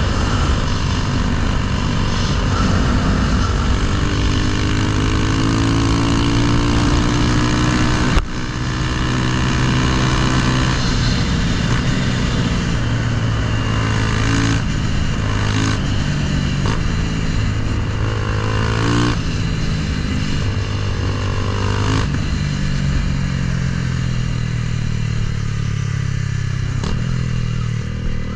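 Honda Grom's swapped-in CBR300R single-cylinder engine running under way, its note climbing as it accelerates and dropping back at each of several gear changes. The first shift comes with a sharp break about eight seconds in.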